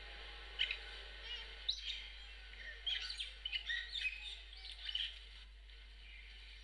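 Small birds chirping: a quick run of short, high chirps and twitters that stops about five seconds in, over a faint steady hiss.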